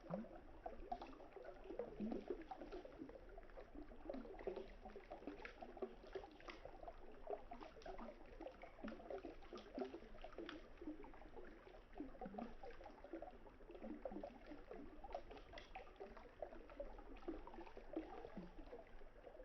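Campfire wood crackling with scattered sharp pops, over the soft gurgle and trickle of river water.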